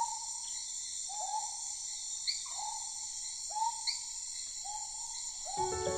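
Tropical rainforest ambience: a steady high-pitched insect drone, with an animal's short low call that rises and falls, repeating about once a second. Music starts near the end.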